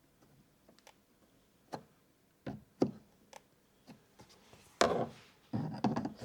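Screwdriver clicking and scraping against a stuck snap-in part as it is pried at. There are a few separate sharp clicks, then a longer, louder stretch of scraping about five seconds in. The part is too tight and does not come free.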